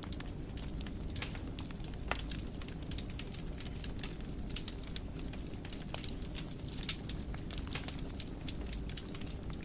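Wood fire burning in a fireplace, crackling with many small sharp pops at irregular intervals over a steady low rumble of the flames.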